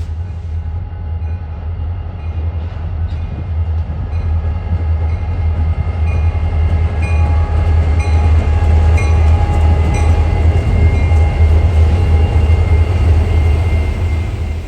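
Train rolling past: a heavy low rumble with scattered sharp clicks from the wheels, getting louder through the middle and cutting off suddenly at the end.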